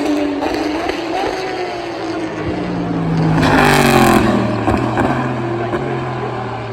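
Endurance race car passing at speed, its engine note falling steeply as it brakes and downshifts for a corner entry, loudest about four seconds in. A steadier, lower engine note runs beneath from about midway.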